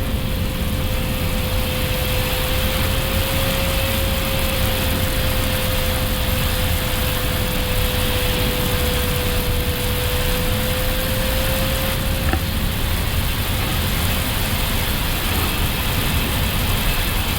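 Steady rushing noise and low rumble of an Airbus A380 flight deck in flight on approach, with a faint steady hum that fades out about twelve seconds in and a single light click around the same time.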